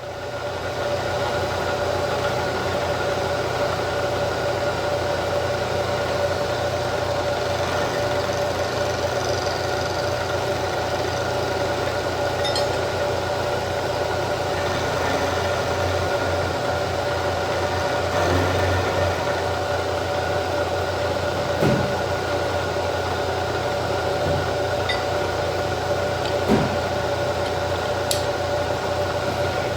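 Vertical milling machine running steadily with its cutter taking a pass along a flat on a metal control rod. A couple of short knocks in the second half.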